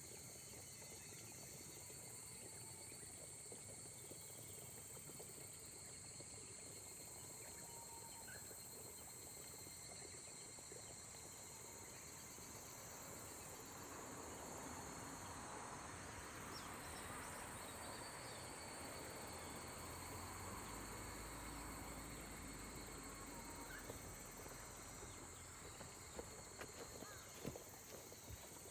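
Faint chorus of insects trilling steadily at several high pitches, over a soft hiss of light rain that grows a little stronger in the middle. A few faint taps near the end.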